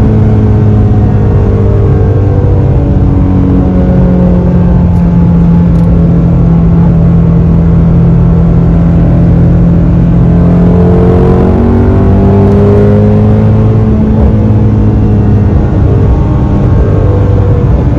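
2020 Shelby GT350's 5.2-litre flat-plane-crank V8 running under steady cruise, with road noise; the engine note climbs a little about twelve seconds in.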